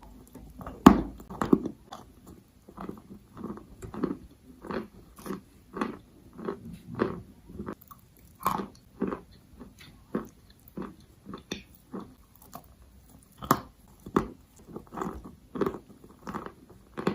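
A person biting and chewing chalk: steady chews about twice a second, with a few sharper, louder bites, the loudest about a second in.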